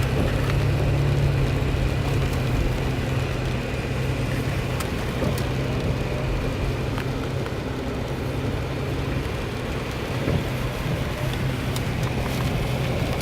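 Toyota FJ Cruiser's V6 engine and tyre noise heard from inside the cabin as it drives slowly over icy road: a steady low drone with an even hiss of tyres on the frozen surface.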